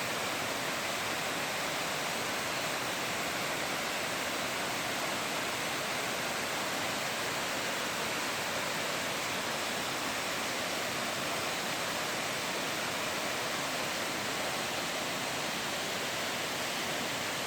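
Steady, unbroken rushing of a large waterfall.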